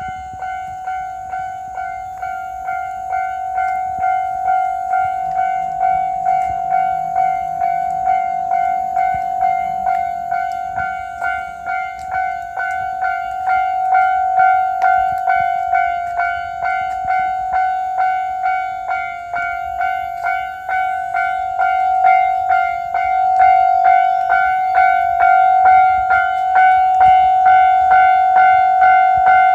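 Japanese railway level-crossing warning bell ringing steadily, an electronic ding repeating about twice a second, growing gradually louder.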